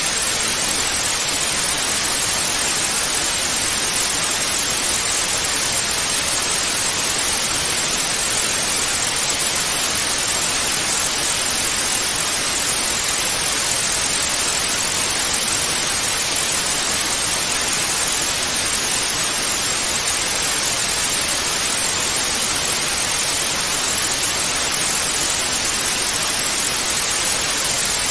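Analogue TV static: a steady, unchanging hiss, brightest in the upper range.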